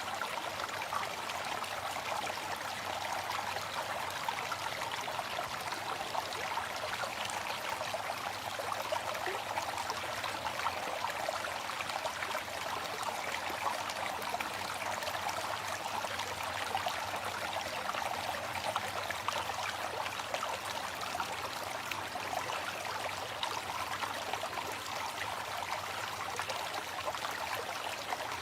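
Waterfall: a steady, unbroken rush of falling water, mostly in the mid and high range with little low rumble.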